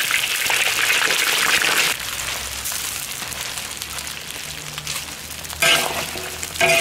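Chopped duck sizzling in hot oil in an iron wok, a loud hiss that is strongest in the first two seconds and then settles a little. Near the end a metal spatula scrapes across the wok twice, about a second apart.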